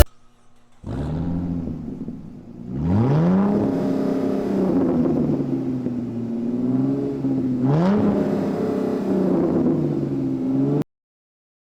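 Car engine running with a steady note, revved up twice with a sharp rise in pitch that then settles, and cut off suddenly near the end.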